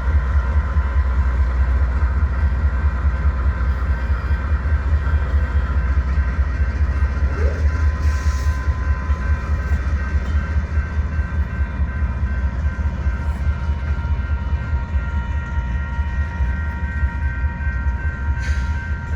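Union Pacific diesel freight train running, a deep steady rumble with several steady higher tones over it. A brief hiss comes twice, about eight seconds in and near the end.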